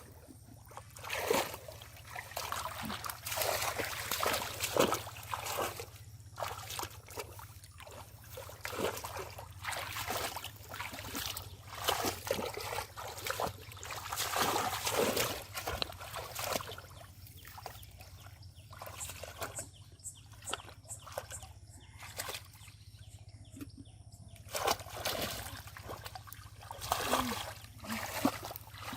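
Pond water splashing and sloshing in irregular bursts, from hands working through shallow, muddy water to catch fish.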